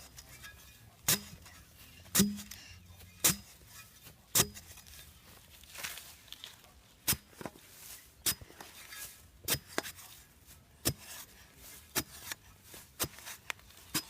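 A hand tool striking repeatedly, a sharp knock about once a second, as in building the trap or digging a hole.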